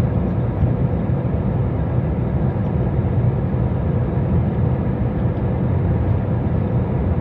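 Steady low rumble of a vehicle engine running, even throughout.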